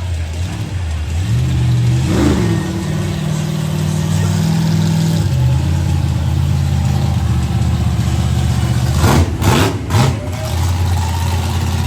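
Monster truck engine running hard, its pitch shifting up and down as the throttle changes, with a quick rev about two seconds in. A little past nine seconds it gives three sharp throttle blips in quick succession.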